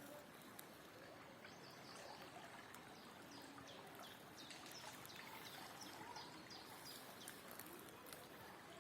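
Faint steady rush of a river's flowing water, with a small bird giving a quick series of short, high, falling chirps, about two a second, through the middle.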